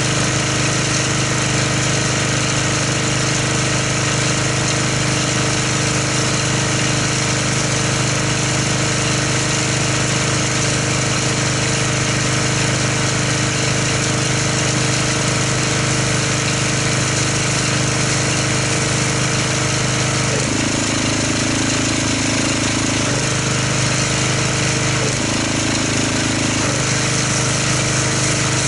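Pressure washer running steadily while spraying car-wash soap through a foam cannon, a steady pump hum under a hiss of spray. Its tone shifts twice in the last third.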